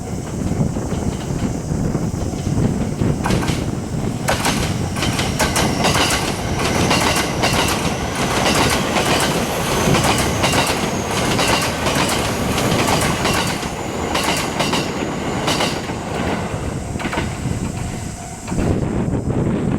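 Train passing close by over a level crossing: a steady rumble with a long run of wheels clacking over the rail joints, the clacking thinning out toward the end.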